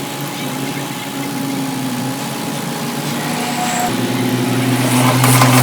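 Diesel engine of a heavy construction machine running steadily; about four seconds in its note shifts and it grows louder, and crackling, crunching noises begin near the end.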